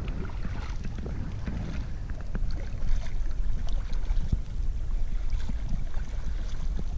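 Water splashing and lapping around a kayak on a lake, with a few light knocks against the hull. Wind rumbles on the microphone throughout.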